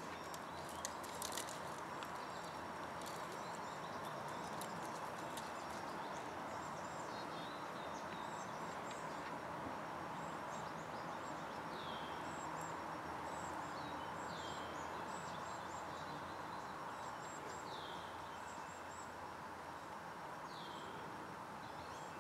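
Quiet outdoor ambience: a steady hiss with songbirds calling throughout, including a short downward-sliding call repeated every few seconds, and a few faint clicks about a second in.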